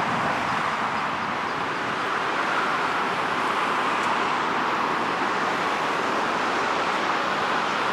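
Jet airliner engine noise near the runway: a steady, even rushing sound with no change in level.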